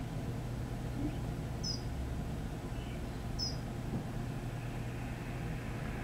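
Short, high-pitched chirps from small birds, one about a second and a half in and another at about three and a half seconds, with a few fainter ones between, over a steady low background rumble.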